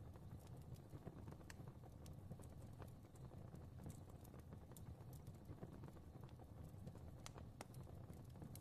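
Fireplace fire crackling faintly: irregular sharp pops and snaps over a low, steady rumble of the flames.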